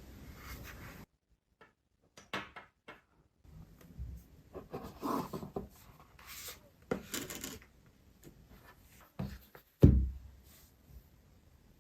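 Glass pen scratching across sketchbook paper in short, separate strokes, with small clicks and taps. One heavy thump comes near the end.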